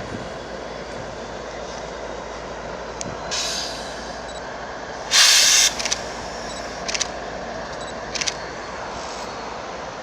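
A train rolling by with a steady rumble. Short blasts of air hiss come through it, the loudest a half-second burst about five seconds in, with smaller ones before and after.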